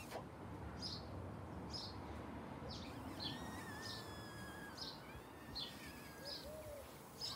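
Birds chirping, a short high chirp about once a second, with a thin steady high note joining about three seconds in.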